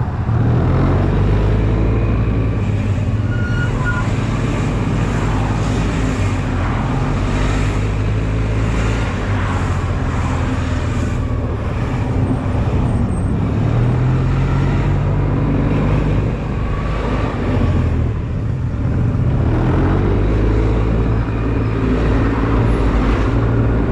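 Honda Silver Wing's engine running on the move, with steady road and wind rumble on the microphone. The engine note shifts in pitch around the middle as speed changes.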